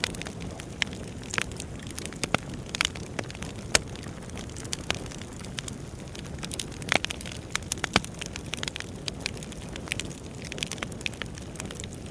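Wood fire burning, crackling with irregular sharp pops over a steady low rumble and hiss.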